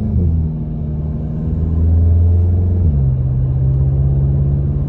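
VW GTI's turbocharged four-cylinder engine heard through an AWE Touring catback exhaust, from inside the cabin with the windows closed, pulling through the gears. The exhaust note drops at an upshift right at the start and again about three seconds in.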